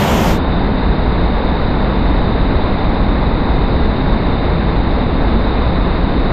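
Steady loud rushing roar of a waterfall, heavy in the low end.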